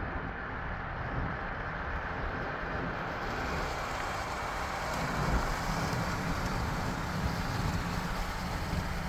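Steady vehicle and road noise: a low rumble under an even hiss that brightens about three and a half seconds in.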